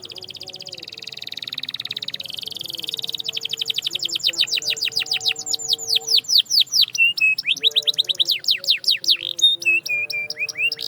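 Domestic canary singing: a fast rolling trill, then a long run of downward-sweeping whistled notes about five a second that speed up near the end.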